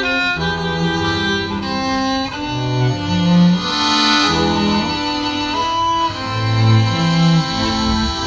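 Bowed string instruments playing a live piece: a low line of held notes, changing about every second, under a higher melody.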